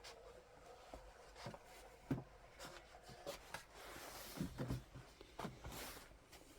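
Faint scattered clicks and knocks of hand tools on metal, with a couple of brief scrapes, as the valve cover is being unbolted from an old engine.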